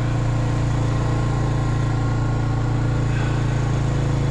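Small vehicle engine running steadily at low speed, an even hum with no change in pitch.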